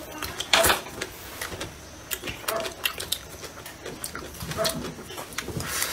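Close-up mouth sounds of a person eating crunchy food: chewing and crunching in short, sharp clicks, the loudest crunch about half a second in.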